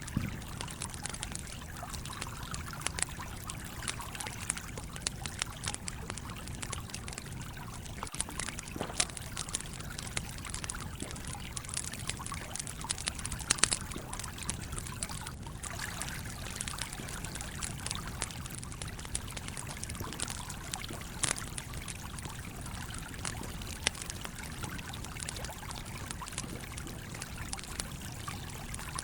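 Campfire crackling, with sharp pops scattered irregularly and a louder cluster about fourteen seconds in, over the steady flowing rush of a stream.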